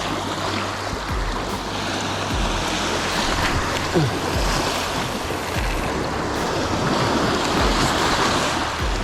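Waves washing in along the shore, a steady rushing noise, with gusts of wind buffeting the microphone.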